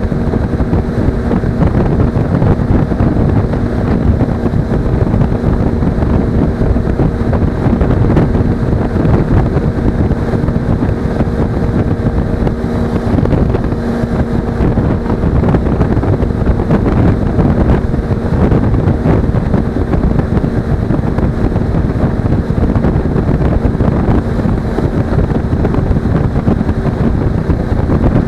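Wind buffeting an action camera's microphone on a moving Suzuki V-Strom 250, with the motorcycle's parallel-twin engine holding a steady hum underneath at an even cruising speed.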